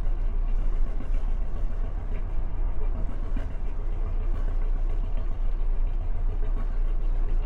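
Volvo Penta MD6A two-cylinder marine diesel running at a steady low rumble.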